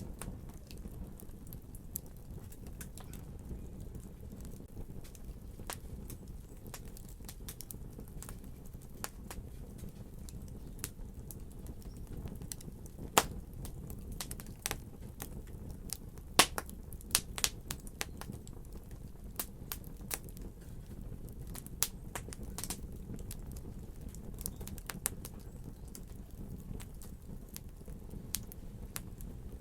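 Wood fire burning with a steady low rumble and scattered crackles and pops, thicker for a while in the middle of the stretch, with a few sharp, louder pops about 13 and 16 seconds in.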